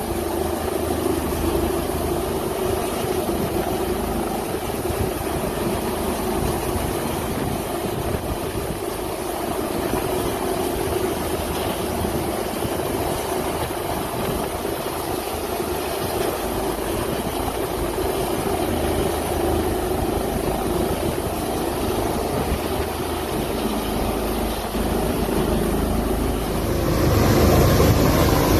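A steady engine running, with a constant hum, growing louder near the end.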